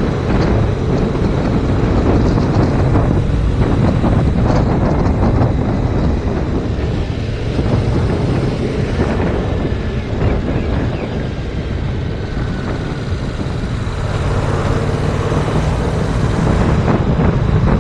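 Heavy wind buffeting on the action camera's microphone while riding a 2019 Yamaha MT-07 motorcycle, with its parallel-twin engine running underneath. The engine note stands out more clearly, as a steady pitched drone, near the end.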